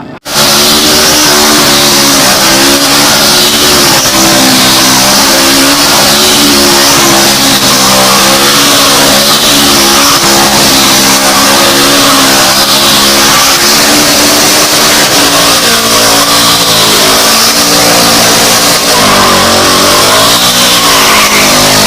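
Loud vehicle engine running at high, fairly steady revs, its pitch wavering slightly up and down and dipping briefly near the end.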